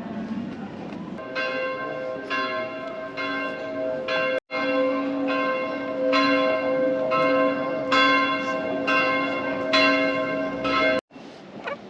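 Church bells ringing, a steady round of strikes about once a second whose tones hang on between them.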